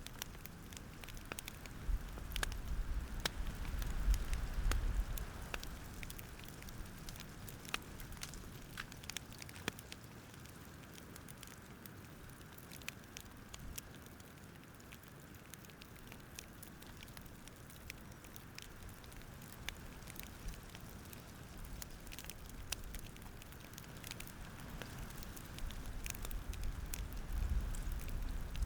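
Campfire crackling with scattered sharp pops over a soft hiss, and a low rumble that swells about two seconds in and again near the end.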